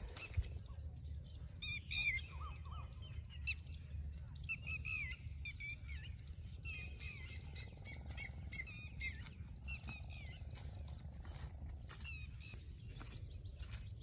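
Small birds chirping and twittering in many short, quick notes, thickest in the first two-thirds, over a steady low rumble.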